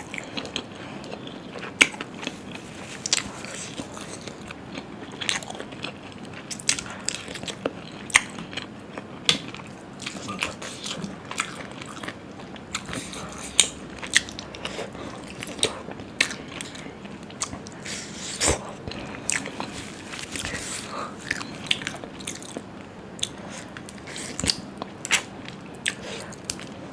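Close-miked eating: a person chewing and biting into mouthfuls of mutton curry, chilli chicken and puri, with frequent sharp wet mouth clicks and smacks at an irregular pace.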